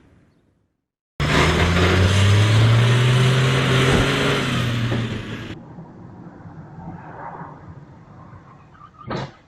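A car engine accelerating, its pitch slowly rising under loud road and wind noise, starting suddenly about a second in and running for about four seconds before dropping to quieter traffic noise. A brief knock near the end.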